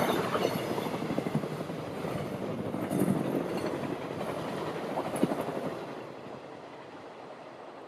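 KORAIL ITX-Saemaul passenger train running past and away along the track, its wheels clacking over the rail joints, with louder knocks about three and five seconds in. The sound fades to background about six seconds in as the last car goes by.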